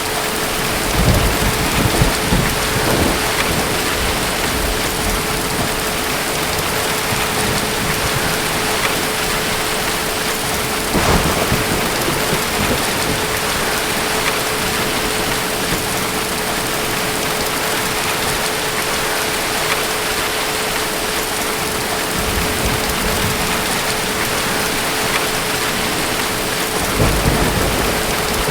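Steady heavy rain, with deep thunder rumbling three times: about a second in, again around a third of the way through, and near the end. A faint steady hum runs underneath.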